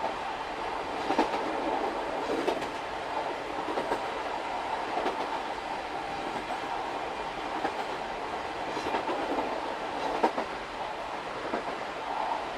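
Old-type SuHaFu 42 passenger coach running over jointed rail behind EF58 electric locomotive 61, heard from the coach end: a steady running rumble with sharp rail-joint clicks about every second or so. The train is coasting downhill, so the locomotive's traction motors are barely heard.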